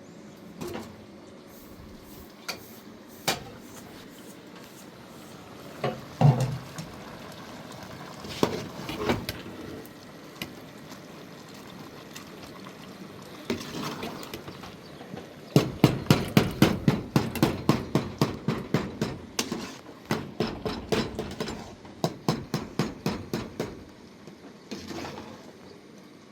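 Scattered knocks and clatter, then about halfway through a long run of rapid, regular sharp strikes, about three a second, that stops shortly before the end.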